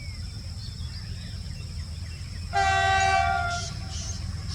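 WDG4G diesel locomotive's horn sounding one blast about a second long, starting abruptly about two and a half seconds in, over a steady low rumble.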